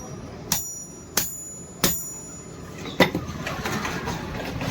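Hammer striking metal four times, each blow with a short high ring, the first three evenly spaced about two-thirds of a second apart, followed by lighter clattering of metal.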